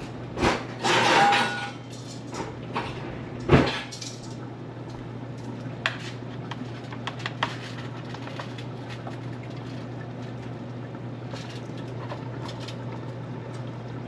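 Metal roasting pan scraping as it is slid back onto the oven rack, with a brief metallic ring, then the oven door shut with one loud thud about three and a half seconds in. A few light clinks follow over a steady low hum.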